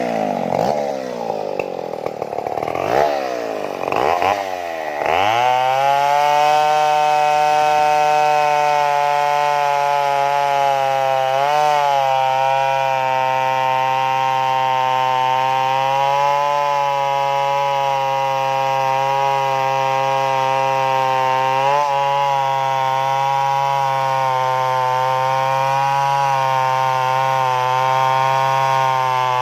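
Stihl two-stroke chainsaw revving up and down, then held at a steady high pitch from about five seconds in as it saws through the trunk, dipping briefly twice under the load.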